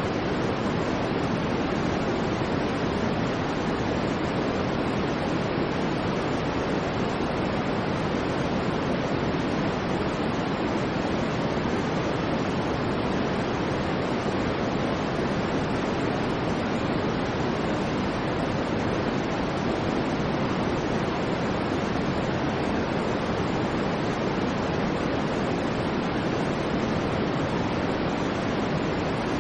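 Continuous white noise: a steady, even rushing hiss that never changes in level or character.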